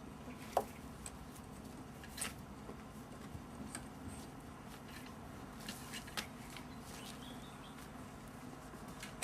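Faint, scattered taps and scuffles from month-old puppies moving about and playing, over a low steady hum.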